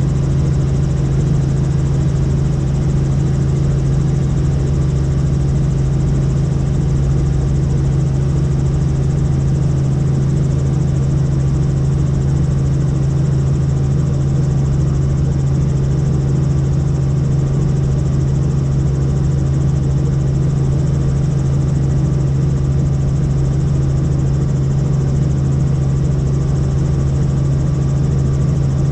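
Helicopter in flight: a steady, unchanging drone dominated by one strong low hum over a low rumble.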